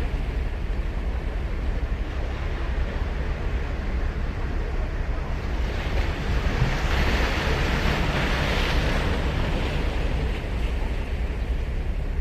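Sea surf on a sandy beach: a steady wash of waves, with one wave breaking and hissing up the shore about halfway through, over a low rumble of wind on the microphone.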